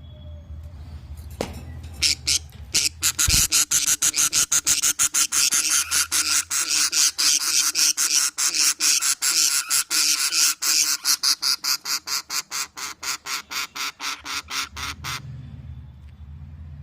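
Budgerigar chicks calling in a fast, even run of sharp high-pitched chirps, about four or five a second, starting about two seconds in and stopping a couple of seconds before the end.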